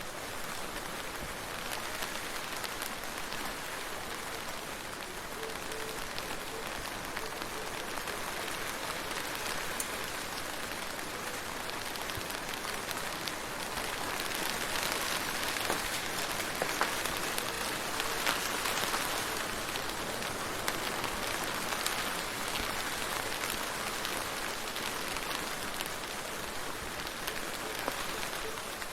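Steady rain falling, with many separate drops ticking on a surface; it grows a little heavier for several seconds around the middle.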